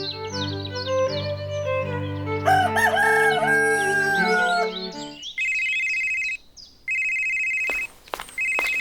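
A rooster crowing over music, then a telephone ringing about halfway through: three buzzing rings, each about a second long, with short gaps between.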